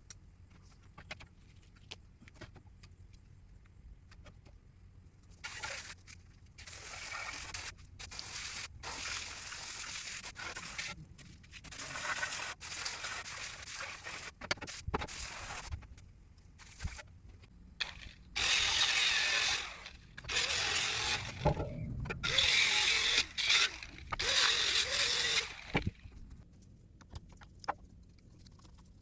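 Tool work on metal: a run of stop-start bursts of harsh scraping or hissing noise, each a second or two long, louder in the second half.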